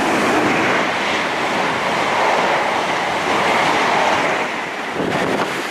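A train running past at speed: a steady rush of wheels on the rails with clickety-clack over the rail joints.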